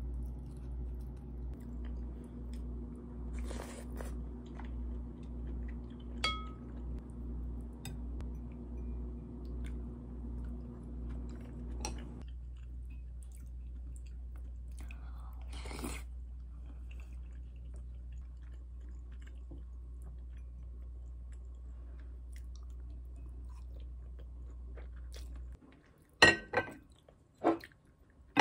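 A person chewing food, a steady rhythmic chewing that stops shortly before the end. Then come a few sharp clinks of ceramic bowls and dishes being gathered up, the loudest sounds here.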